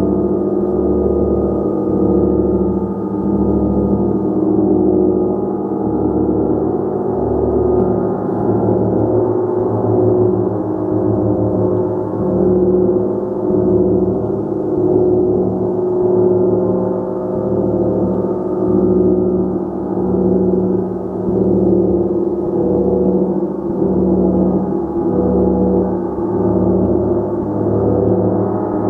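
Gong played continuously, a dense sustained wash of many overtones that swells and ebbs in slow pulses about every two seconds.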